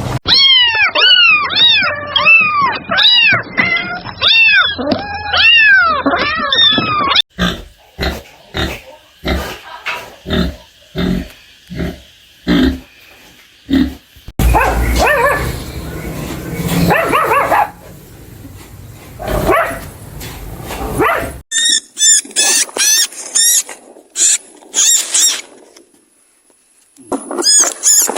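A series of different animal calls cut one after another: repeated arching calls for the first several seconds, then a run of short grunt-like pulses, a rougher, noisier stretch, and quick high chirps near the end.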